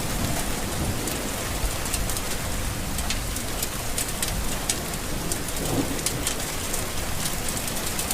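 Steady rain falling, with many sharp drop ticks on top, over a low rumble of thunder.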